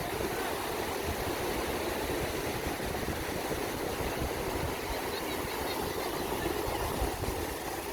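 Steady rushing noise of sea waves breaking on the shore.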